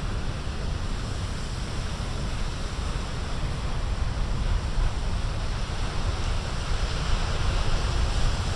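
Big ocean waves breaking and rushing in a steady surf noise, with wind rumbling on the microphone; the surf swells a little louder toward the end.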